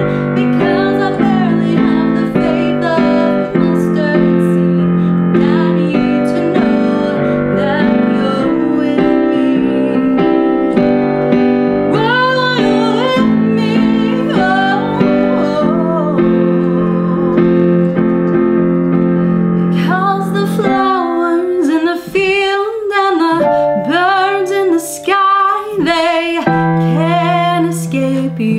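A woman singing a gentle song over keyboard accompaniment. About three-quarters of the way through, the held low chords drop out and the backing turns sparser beneath the voice.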